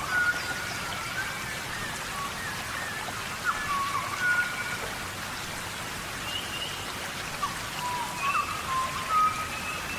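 Steady heavy rain falling in a tropical rainforest, with short whistled calls that rise, fall or hold a note, heard several times, loudest near the start, around four seconds in and near the end.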